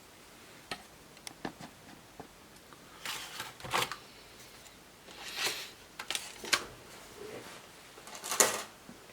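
Laptop casing and parts being handled during disassembly. Scattered light plastic clicks and knocks, with three short sliding scrapes about three, five and a half and eight and a half seconds in.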